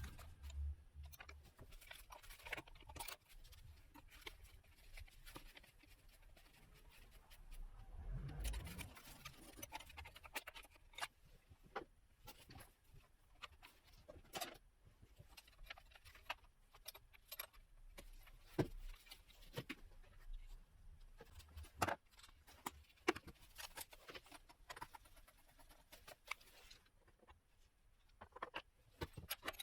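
Hand tools and small metal parts clicking and clinking at an irregular pace, with a low thump about eight seconds in.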